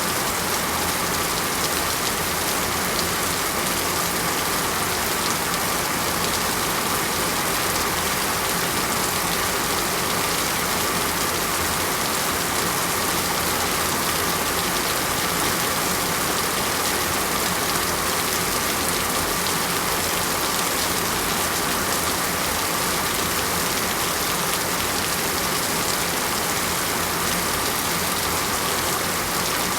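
Heavy rain falling steadily, a dense, unbroken hiss with no thunder or distinct drops standing out.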